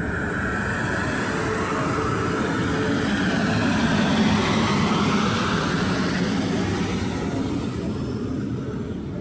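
A train passing through the station, its running noise swelling to a peak about four seconds in and then fading away.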